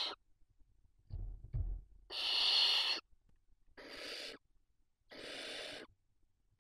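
Barn owls in a nest box giving rasping, hiss-like calls, three in a row each lasting under a second. There are a few soft knocks or scrapes about a second in.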